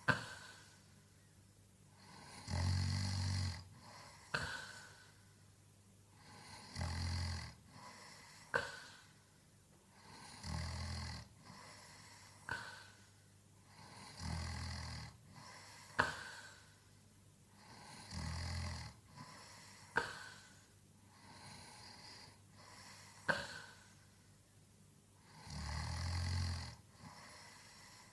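A sleeping man snoring: a deep, rumbling snore about every four seconds, six in all, with a short sharp sound in each pause between them.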